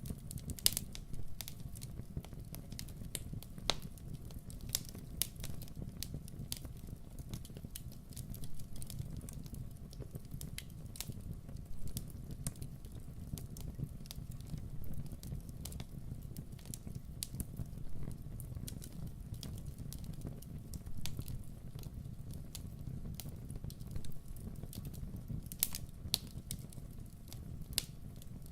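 Wood campfire burning, crackling with irregular sharp pops over a steady low rumble of the flames.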